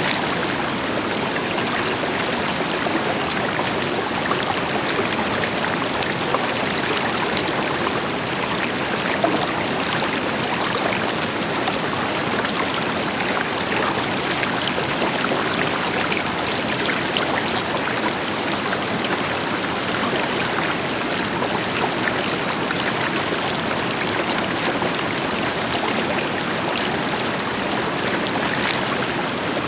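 River water flowing and splashing over rocks, a steady rushing with small splashes and trickles throughout, over the deeper rush of a waterfall.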